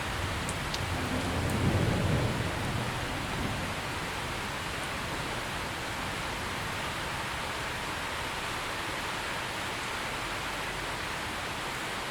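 Steady rain, with a low rumble of thunder swelling and fading about one to three seconds in.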